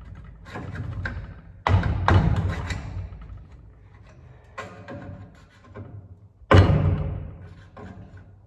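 Hammer striking a screwdriver used as a chisel, cutting and prying the old truck sheet metal of the windshield header: a few loud, irregular blows a second or two apart, each dying away.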